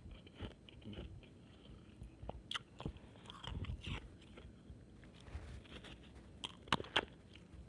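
Close-up chewing and crunching of a mouthful of shaved ice, with two sharp crunches near the end.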